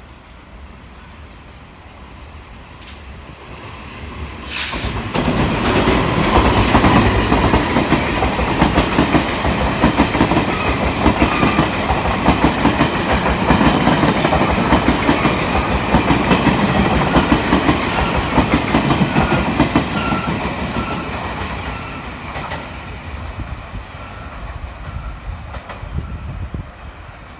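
Taiwan Railways E400-series electric locomotive E403 and its passenger cars passing close by: a brief sharp sound as it arrives about four seconds in, then a loud rumble with wheels clattering over rail joints that fades away over the last few seconds.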